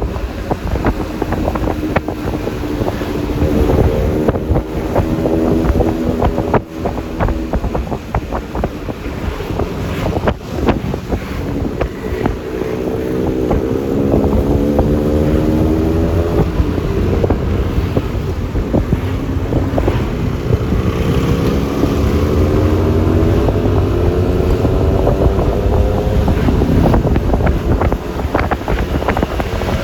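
Yamaha Lexi LX 155 scooter's single-cylinder engine accelerating three times, its pitch rising each time, over steady rumbling road and wind noise on the microphone.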